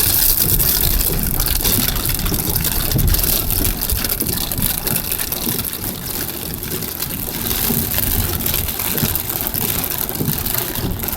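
Heavy rain on a moving car, heard from inside the cabin: a steady hiss of rain on the roof and windshield and of tyres on the wet road, over a low rumble.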